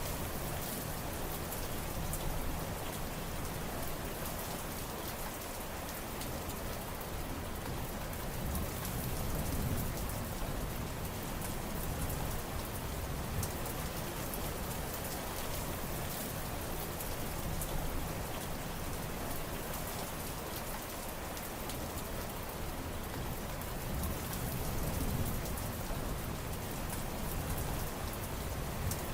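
Steady rain, an even hiss with individual drops ticking on a surface throughout. A low rumble swells and fades twice, about a third of the way in and again near the end.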